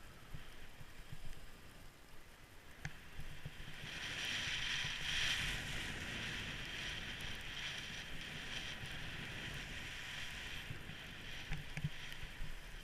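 Skis sliding over snow: a steady hiss that swells about four seconds in, holds for several seconds, then fades.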